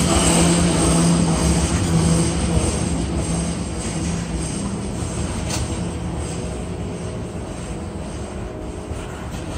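Freight train cars, tank cars and covered hoppers, rolling past on steel wheels: a steady rumble that slowly grows quieter, with a low hum that fades out in the first few seconds.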